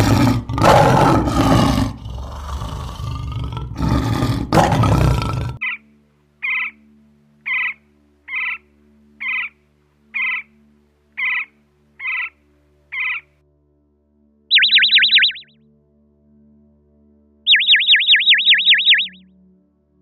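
Male lion roaring for about five and a half seconds. Then a woodpecker gives about nine short, evenly spaced calls, followed by two fast, high trills.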